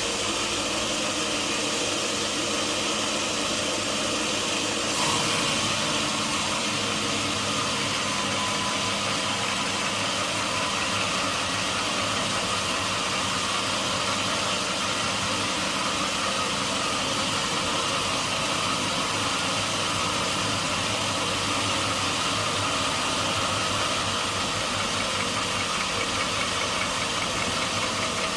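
Sawmill machinery running steadily, an engine-like hum with a slight change about five seconds in.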